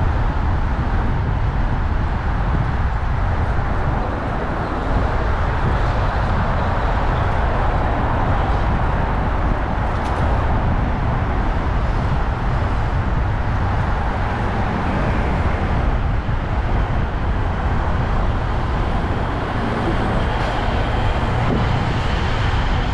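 Steady road traffic and rolling noise picked up by a camera mounted on a moving bicycle, heavy in the low end, with no sudden events. A faint high tone comes in near the end.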